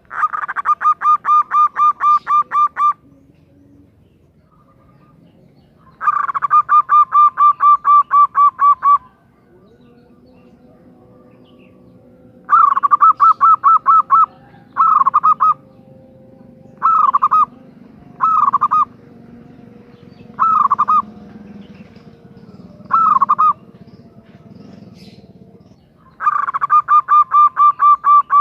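Female zebra dove (perkutut) calling, the call used to draw males into singing: trains of rapid, evenly repeated notes, about five a second, each train lasting around three seconds. In the middle, the long trains give way to several short half-second bursts.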